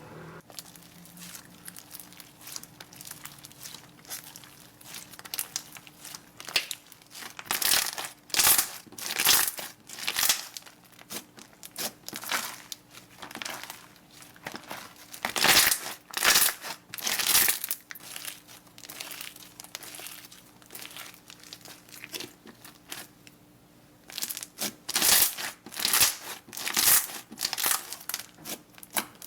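Slime being squeezed and worked, giving irregular runs of crinkly crackling pops with quieter pauses between them.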